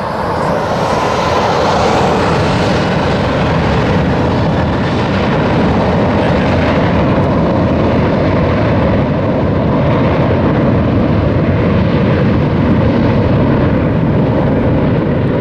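Southwest Airlines Boeing 737 jet engines at takeoff power: a loud, steady noise that holds throughout.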